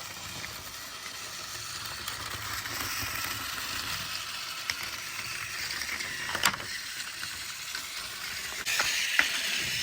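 Battery-powered Trackmaster toy train's small motor and gears running steadily as it rolls along plastic track, with a few sharp clicks. It gets louder near the end.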